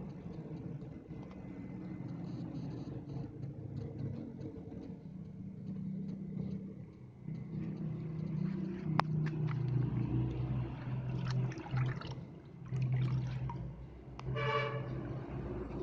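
A simple floating-pellet extruder machine running, with a low motor hum that shifts in pitch as the load changes, plus scattered clicks and rattles. A short horn-like tone sounds about a second before the end.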